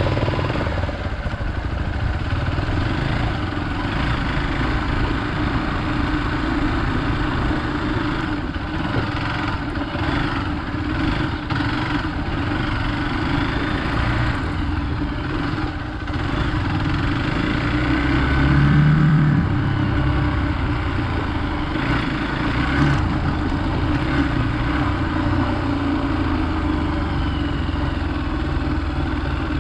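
Hero Xpulse 200 motorcycle's single-cylinder engine running steadily, with a brief louder rise in the engine note about two-thirds of the way through.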